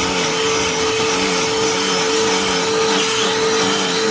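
Cordless handheld vacuum running, with a steady motor whine over the rush of its airflow and a lower hum that wavers slightly in pitch.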